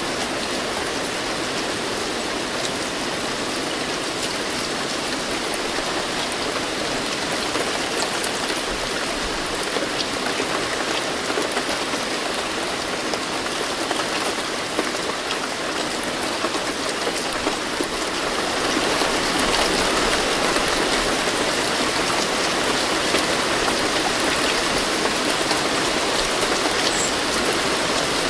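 Steady rain falling, a dense even hiss with scattered individual drop ticks, growing a little louder about two thirds of the way through.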